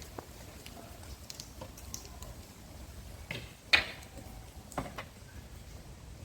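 Acorns falling from oak trees and hitting the ground with sharp knocks. There is a light one just after the start, a pair about three and a half seconds in (the second is the loudest), and another near five seconds.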